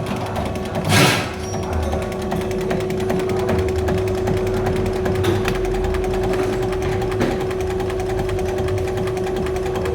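Mercedes-Benz OM615 diesel injection pump running under test: a steady, fast mechanical clatter over a constant hum, with a short hiss about a second in.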